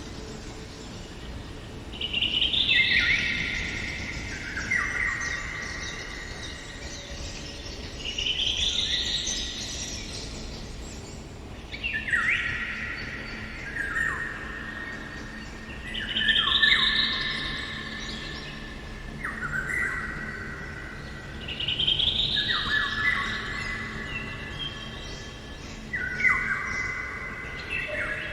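A songbird singing the same phrase over and over, about seven times: each phrase rises quickly and then steps down in pitch over two or three seconds, with a few seconds' pause between phrases.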